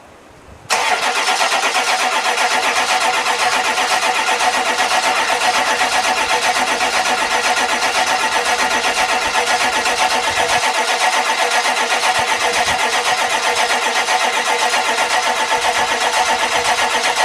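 Starter motor cranking the 2002 Ford F-250's 7.3-litre diesel V8, a fast, even, pulsing churn that begins about a second in and never catches. The engine won't fire in the cold because of a faulty glow plug relay, and the owner thinks the battery is close to dying.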